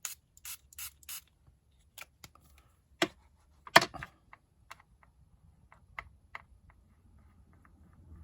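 A small hand-pump spray mister spritzed four times in quick succession, each a short hiss, followed by scattered clicks and knocks of small items being handled and set down, the loudest about four seconds in.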